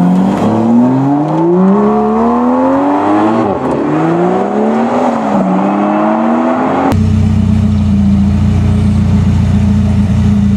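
Supercar engine accelerating hard, its pitch climbing and dropping back at upshifts about three and a half and five seconds in. About seven seconds in, the sound switches abruptly to an engine idling steadily.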